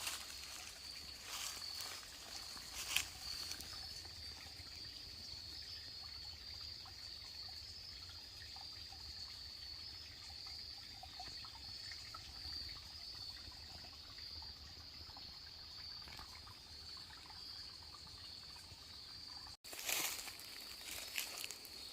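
Woodland ambience: a steady high-pitched insect trill over faint trickling water. A few rustling, crunching steps come in the first few seconds and again after an abrupt cut near the end.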